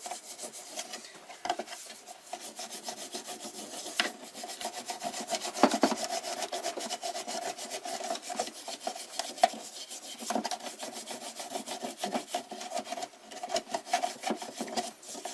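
Fast, continuous scrubbing of mineral scale inside a hot air humidifier, using toothpaste as a mild abrasive cleanser.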